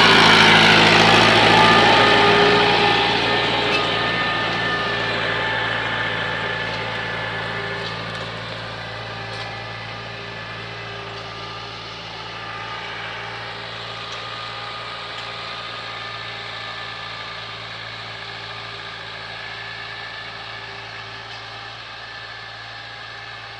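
Tractor engine running steadily under a constant throttle, loudest at first and then fading as it moves away.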